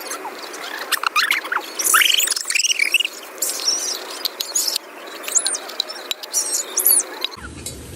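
Birds chirping and calling in short rising and falling whistles, over a steady hiss and frequent sharp clicks. Near the end the sound cuts abruptly to a different background with a low rumble.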